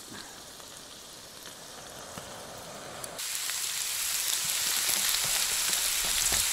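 Sirloin steaks sizzling in a frying pan over a fire, a steady hiss that turns suddenly louder about three seconds in.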